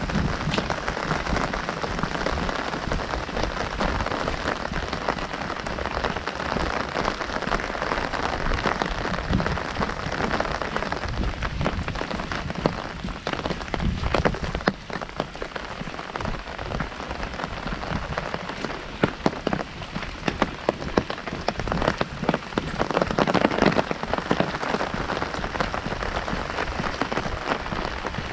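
Heavy rain falling on an umbrella overhead: a dense, even hiss of drops. About halfway through it thins a little, and single louder drops stand out.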